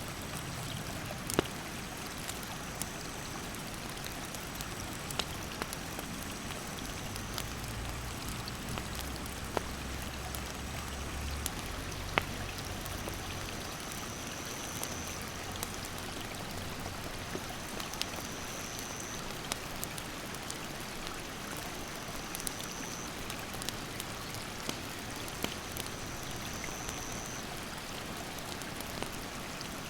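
Mountain stream rushing steadily, with a wood campfire crackling and popping at irregular moments. A short, high insect call repeats about every four seconds.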